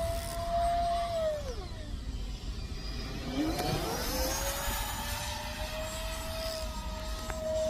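Electric ducted fan of a Freewing F-35 RC jet whining in flight: the pitch drops about a second in, climbs back a couple of seconds later and holds steady, then starts to drop again near the end, as the throttle is worked or the jet passes by.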